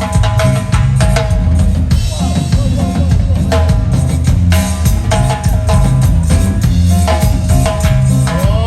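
Live band music driven by a drum kit: steady bass drum and snare strokes under a pitched melody line.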